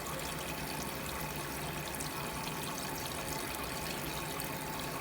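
Small decorative water fountain running: a steady trickle and pour of water.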